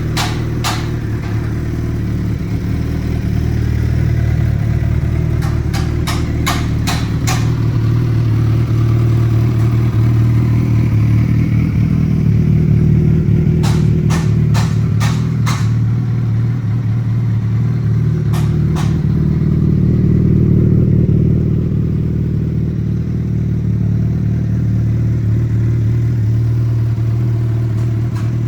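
Suzuki GSX1300 B-King's 1340 cc inline-four engine idling steadily. Short runs of sharp clicks come a few times over it.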